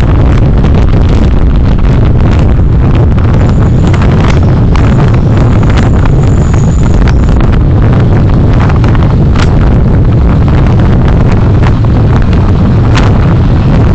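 Car driving, picked up by a dashcam: a loud, steady low rumble of engine and road noise, with many short clicks and ticks scattered through it.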